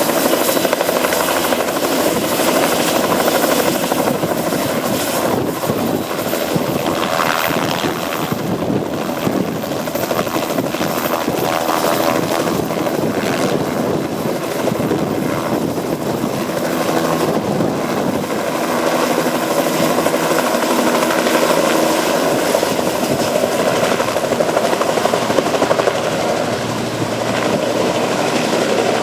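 Passenger helicopters running loud and steady at close range, the rotors and engines giving a continuous drone with no break.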